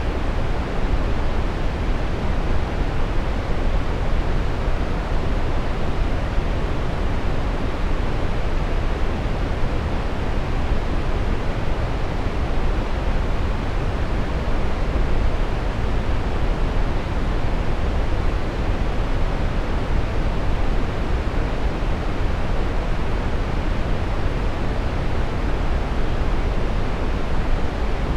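Synthetic brown noise: a steady, deep rushing hiss, heaviest in the bass and thinning out toward the treble, with no change at all.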